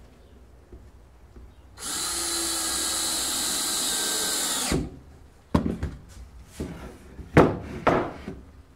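A power drill runs steadily for about three seconds, then cuts off, while screws are driven into a plywood piece. Several sharp knocks follow, wood and tools being handled.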